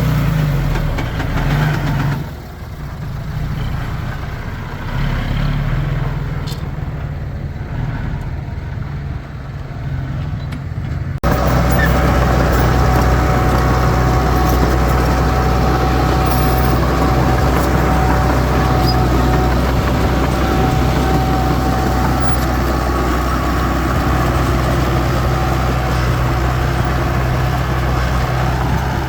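Heavy diesel earthmoving machinery running. About a third of the way in the sound switches abruptly to a louder, steadier engine note with a faint whine over it.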